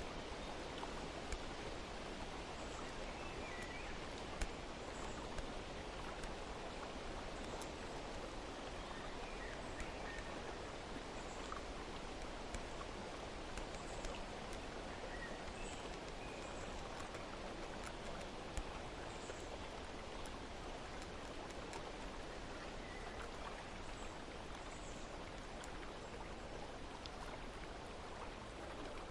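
Steady running-water ambience with faint, scattered bird chirps and a few sharp ticks, the loudest about four seconds in.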